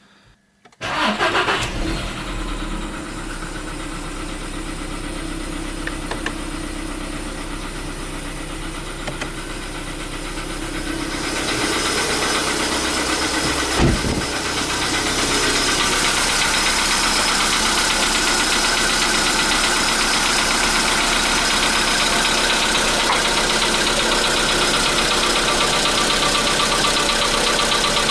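Volkswagen Polo Sedan's CFNA 1.6 four-cylinder petrol engine cold-started: it catches about a second in and settles into a steady idle. It gets louder and brighter from about eleven seconds in, with a single short thump near fourteen seconds. This is the cold-start engine knock that the owner is recording.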